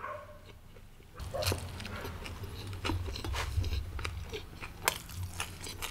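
Close-miked chewing of a full mouthful of food, with wet mouth clicks and smacks; it starts about a second in.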